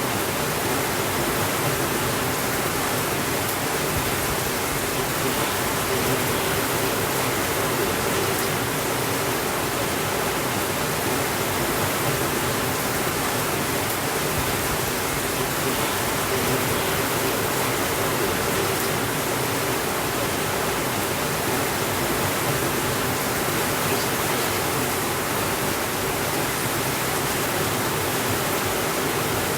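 Steady rainfall: an even, unchanging hiss with no thunder.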